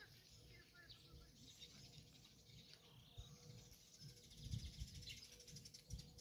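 Near silence with a few faint, short bird chirps, and some low rumbles in the second half.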